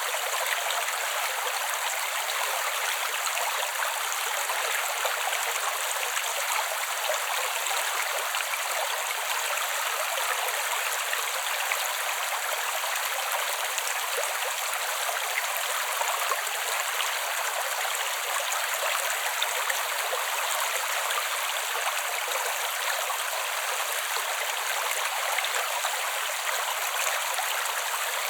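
Creek water running over rocks: a steady rushing and babbling with no pauses or changes.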